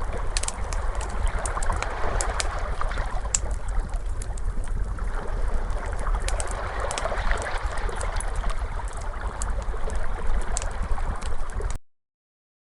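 Ocean waves washing steadily with a wood fire crackling over them in scattered sharp pops. The sound cuts off suddenly near the end.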